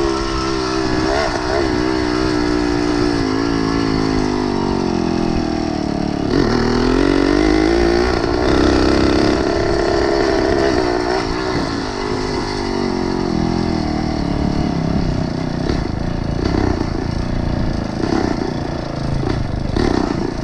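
Small engine of a motorized bicycle running under way, its pitch rising as it speeds up a few seconds in and then settling and falling back.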